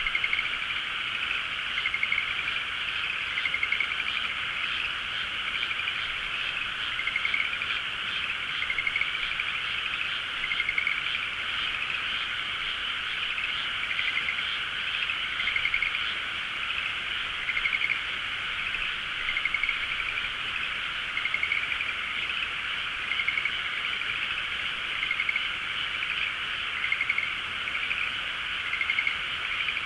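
Dense chorus of many frogs calling at once, a continuous wall of calls. Short, slightly rising calls from nearer frogs stand out about once a second.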